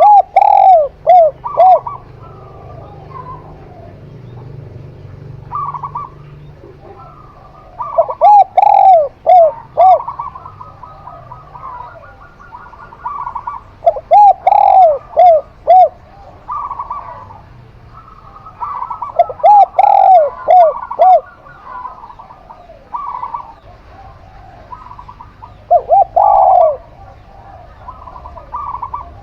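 Doves cooing: five loud phrases of four or five quick looping coos, spaced about five to six seconds apart, with fainter coos from other doves between them.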